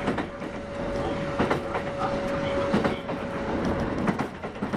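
Kintetsu 8810 series electric train running at speed, heard from inside the car: a steady rumble of wheels on rail with sharp rail-joint clacks every second or so. A steady single-pitched tone runs alongside and stops a little before four seconds in.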